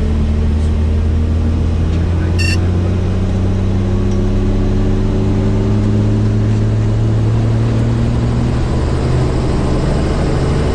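Tour helicopter's engine and rotor running steadily in flight, a loud low hum whose pitch drifts slightly upward through the middle. A brief high beep sounds about two and a half seconds in.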